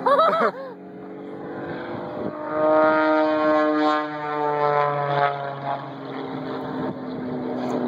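Propeller airplane engine passing close by, loud, its pitch sliding slowly downward as it draws away. A brief loud wavering sound comes at the very start.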